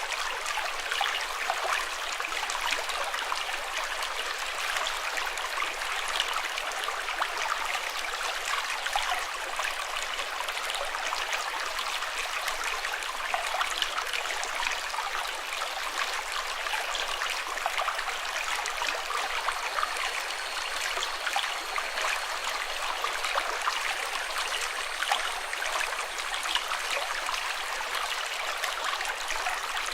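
Running water flowing steadily, like a stream, with a constant rush full of tiny splashes.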